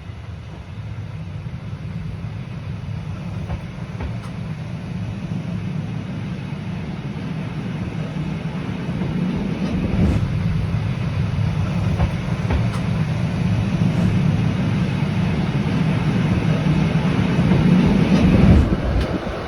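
Rhaetian Railway regional train running on the rails: a steady low rumble that slowly grows louder, with a few sharp clicks of the wheels over the track from about halfway in, easing off just before the end.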